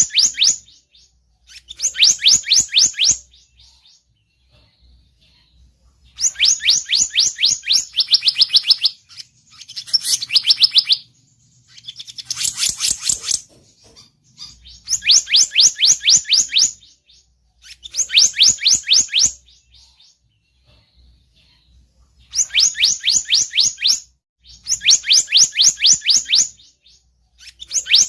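Selendang biru bird call used as a lure, probably played from a recording. It comes in repeated bursts of one to two seconds, each a rapid run of high, quickly falling chirps, with short gaps between bursts.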